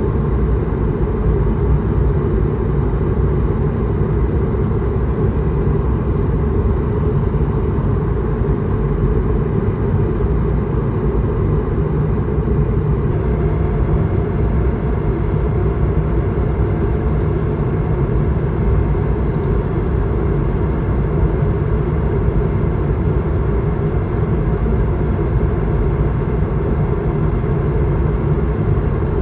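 Steady in-flight cabin noise of an Airbus A220-300 heard from a front-row window seat: a constant rumble of airflow and its Pratt & Whitney PW1500G geared turbofan engines. A faint high whine joins about halfway through.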